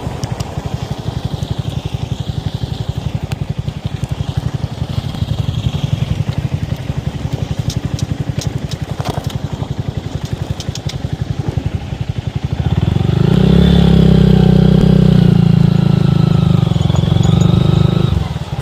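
Small single-cylinder motorcycle engine running while riding, a fast steady pulsing; about two-thirds of the way in it grows much louder under throttle, then drops back just before the end.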